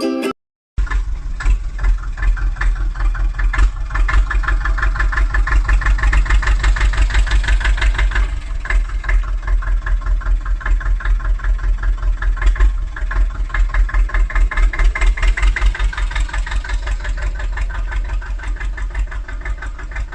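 An engine idling with an even, rapid beat, starting under a second in after a brief gap.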